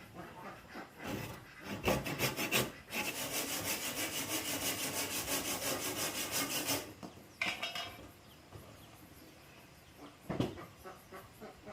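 Wood being sawn: a few short rasping strokes, then a steady spell of sawing for about four seconds, then a couple more short strokes.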